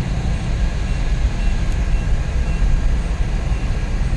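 Steady in-cabin drone of a Suzuki DA64V van driving at highway speed, its freshly rebuilt K6A three-cylinder engine running along with road and tyre noise. It runs with no strange noises, just as it is supposed to.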